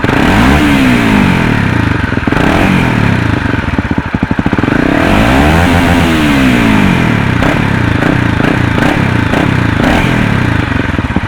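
Honda CBR250R single-cylinder engine revved twice through a custom silencer with its dB killer baffle removed, each rev rising and falling back; a few short sharp pops follow in the later part. The open exhaust is too loud.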